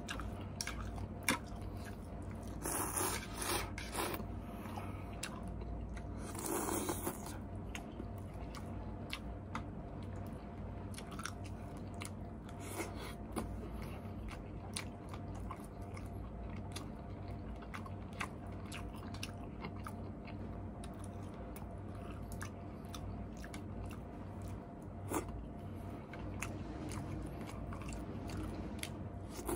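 Close-miked mukbang eating: a person biting and chewing noodles, with many small wet mouth clicks and a few louder bursts around three and seven seconds in.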